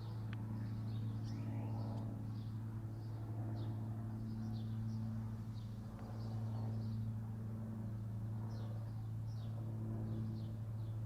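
Many small birds chirping in quick short notes throughout, over a steady low mechanical hum that is the loudest sound.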